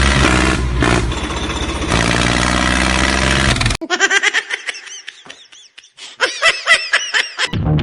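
A motor engine running steadily, cut off abruptly after almost four seconds. It gives way to a high sound effect made of quick, repeated rising-and-falling warbles that lasts until near the end.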